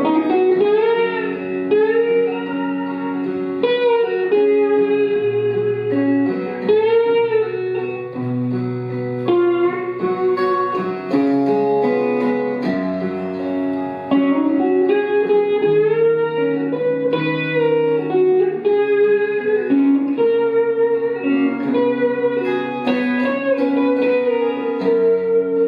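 Instrumental opening of a blues song on guitar: picked notes over a changing low bass line, with melody notes that slide up and down in pitch.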